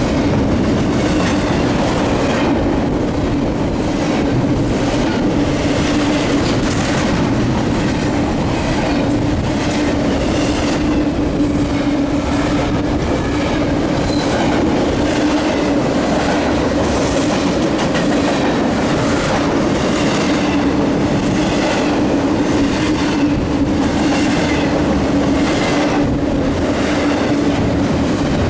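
Freight cars of a double-stack container train rolling past at speed. The wheels click irregularly over rail joints over a constant rumble, and a steady hum holds one pitch throughout.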